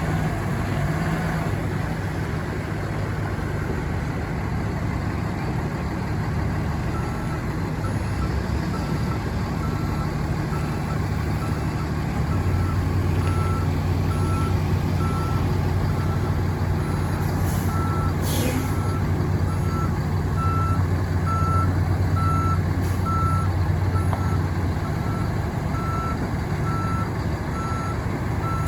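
Diesel engine of a Western Star 4700 truck running steadily, with a backup alarm beeping at an even pace from about seven seconds in. A short hiss of air comes about halfway through.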